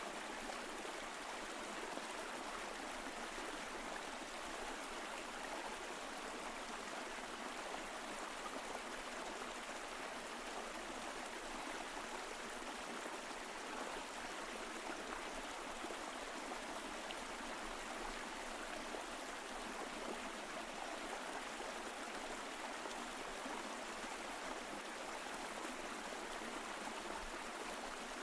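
Mountain stream flowing: a steady, even rush of running water that holds constant without change.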